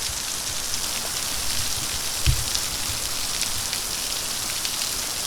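Steady patter and hiss of splashing water from a running water feature, with one dull low thump about two seconds in.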